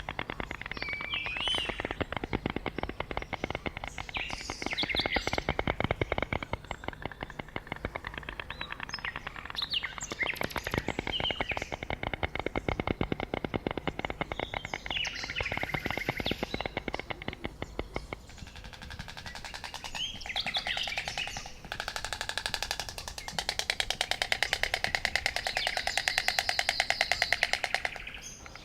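White stork clattering its bill: a rapid, rattling run of wooden-sounding clicks that goes on and on. Small birds chirp over it now and then.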